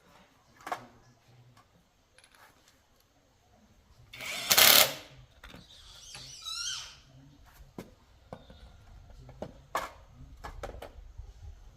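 Workshop work on metal parts: scattered clicks and knocks of tools and parts being handled, with a loud rushing burst about four and a half seconds in, followed by a brief wavering squeak.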